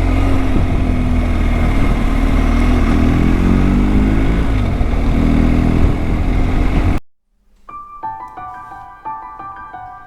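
Motorcycle engine running under way with heavy wind rumble on the microphone, its pitch drifting a little with speed. About seven seconds in it cuts off abruptly, and soft piano music starts.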